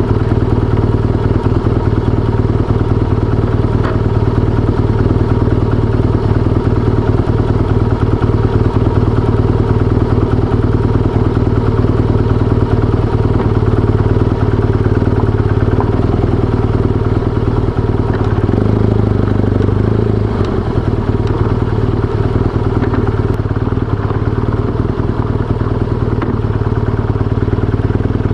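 BMW R1200GS flat-twin boxer engine running under way, a steady motorcycle engine note with some clatter, its pitch changing about two-thirds of the way through as the engine speed changes.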